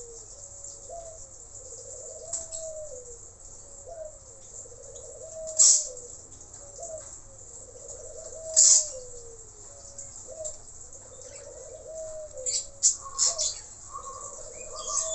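Blue-rumped parrot (nuri tanau) giving short, shrill, high-pitched calls every few seconds, with a quick cluster of calls near the end. Underneath, a low warbling phrase repeats over and over.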